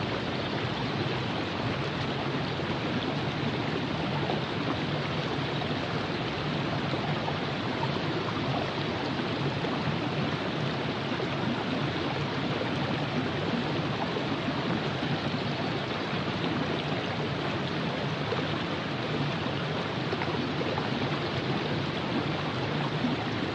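A river flowing over rocks: a steady, even rush of moving water without pause.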